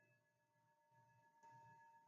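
Near silence, with the faint lingering ring of a singing bowl: a few steady high tones held together, one swelling slightly about one and a half seconds in.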